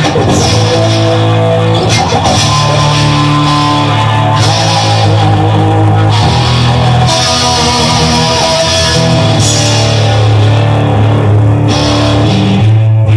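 Instrumental rock music: electric guitar with bass and drums.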